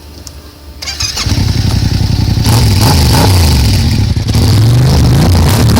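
Yamaha MT-07 parallel-twin engine firing up about a second in through an Arrow aftermarket exhaust with its dB-killer baffle fitted, then revved up and down several times.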